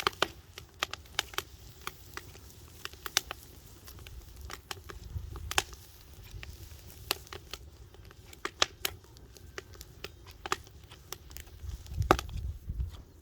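Burning firewood logs crackling, with irregular sharp pops and snaps. A low rumble swells about five seconds in and again near the end.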